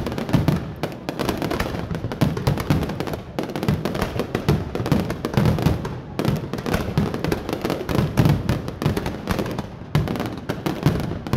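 Fireworks display: a dense, unbroken run of bangs and crackles from bursting shells, several a second.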